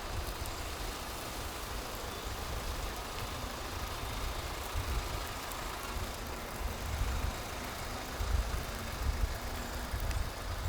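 Low, uneven rumble of city street traffic, with vehicle engines running and no single clear event.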